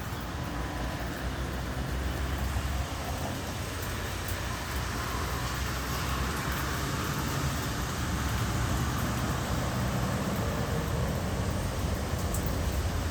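Steady road traffic noise: engines running with a low hum under a continuous hiss of tyres and road.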